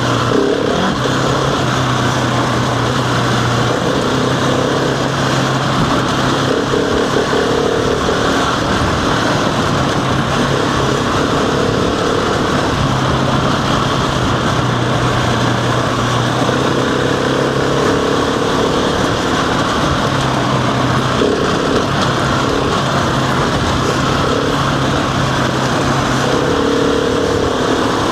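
Husqvarna 701's single-cylinder engine pulling the bike along, its note holding steady for a few seconds at a time and dropping away between stretches, under heavy wind and tyre noise.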